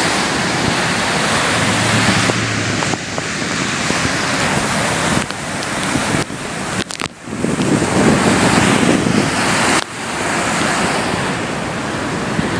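Loud rushing roar of a river in flood, fast whitewater running high after a hurricane, with the sound changing abruptly several times and some wind buffeting the microphone.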